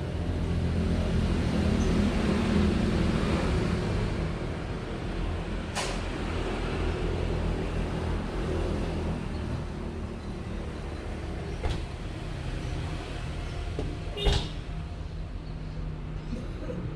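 A low, steady motor rumble, louder for the first few seconds, with three sharp clicks spread through it.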